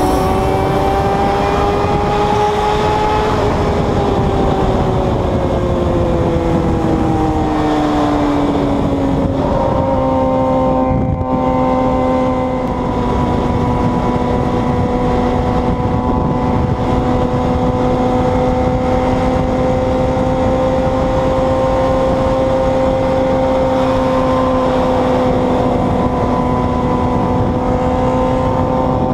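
A motor running under a loud rushing noise; its whine rises in pitch for the first few seconds, falls away until near ten seconds in, then holds at a steady pitch.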